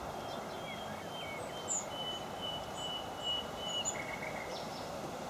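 Small songbirds chirping at a garden birdbath: scattered short high chirps, and a run of thin level notes at one pitch from about a second in. A steady hiss from the trail camera's microphone runs underneath.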